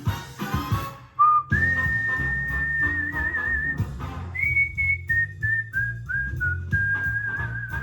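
A whistled melody over backing music: after about a second of rhythmic music, a short low whistle leads into a long held high note with a wavering vibrato, then a run of shorter notes stepping down and another held, wavering note.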